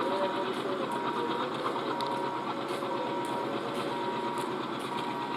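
Diesel train running, a steady rhythmic mechanical clatter and rumble, with a faint high beeping tone that comes and goes several times.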